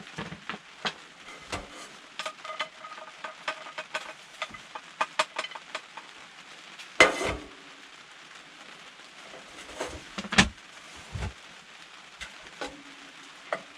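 Chopped garlic sizzling in butter in a pot, stirred with a utensil that clicks and scrapes against the pot, with a couple of louder knocks about seven and ten seconds in.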